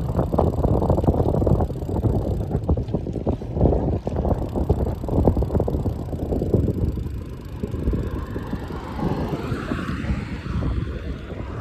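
Wind buffeting the microphone on a moving ride, a dense, irregular rumble with road and tyre noise underneath.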